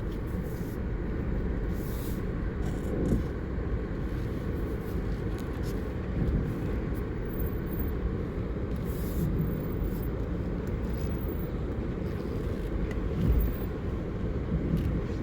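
2017 Subaru Outback on snow tires creeping along a snow-covered dirt road in its lowest gear, heard from inside the car: a steady low rumble of engine and tyres, with a few faint bumps.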